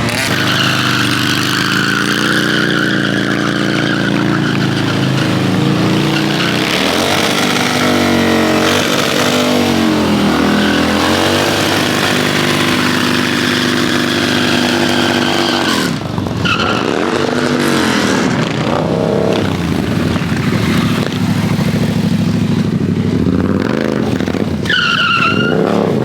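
A car engine revving hard, its pitch repeatedly rising and falling, while the tyres squeal, as in a burnout or drifting display.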